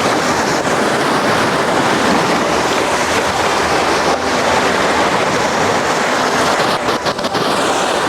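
Sea waves washing onto a rocky beach at high tide, a steady loud surf noise, with wind buffeting the microphone.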